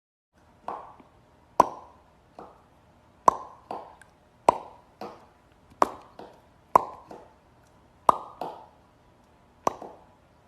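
A series of about fifteen sharp taps on something hard, at an uneven pace of one or two a second, each with a short ringing tone that dies away quickly.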